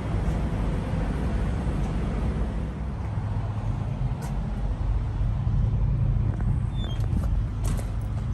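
Heavy diesel truck engines idling, a steady low drone, with a few faint clicks.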